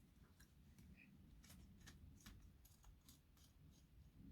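Near silence with faint, scattered small clicks of a screwdriver working on the screws of a model locomotive's chassis.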